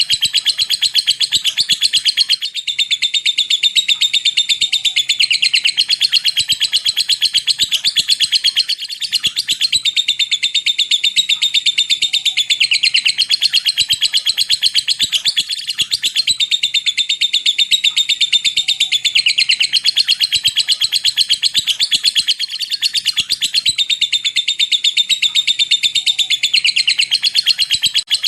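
Lovebird singing a long 'ngetik ngekek' chatter: a fast, continuous run of high ticking notes, with brief breaks about every six to seven seconds.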